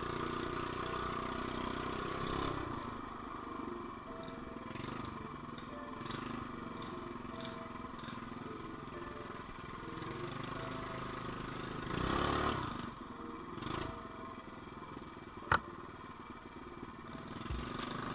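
Mini bike engine running as the bike is ridden, with a single sharp knock about three-quarters of the way through.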